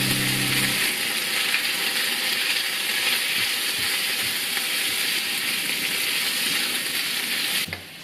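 Chicken and onions coated in curry powder sizzling and frying in a frying pan as they are stirred with a spatula. A steady hiss that cuts off abruptly near the end.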